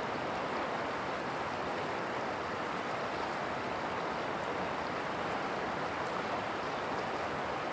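River water rushing past in a steady, unbroken rush.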